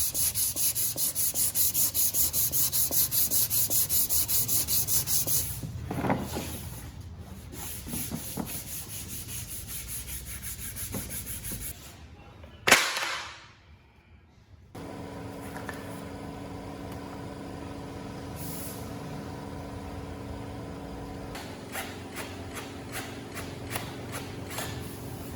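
Fast, regular strokes of sanding or rubbing for about five seconds. A single sharp hit comes about halfway through, then from about two-thirds in a steady machine hum with a constant pitch.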